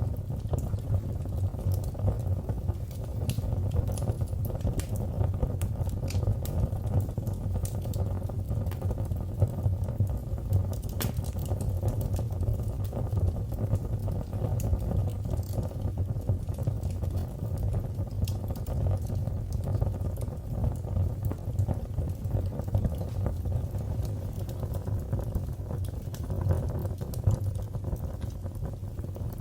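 Wood fire in a fireplace crackling: a steady low rumble of flames with frequent small, sharp pops and snaps scattered irregularly throughout.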